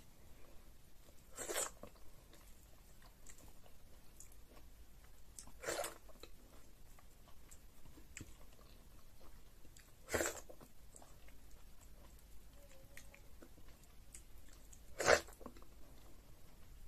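Close-miked eating sounds of a person chewing egusi soup and fufu: faint mouth clicks, and four louder short wet mouth sounds about four to five seconds apart.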